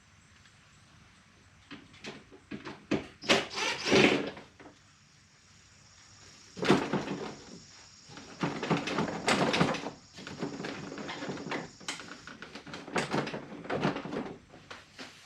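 Clicks, scrapes and rattles of hand work on a pickup truck's interior door panel: a screwdriver and plastic trim being handled, in several bursts with quiet gaps between.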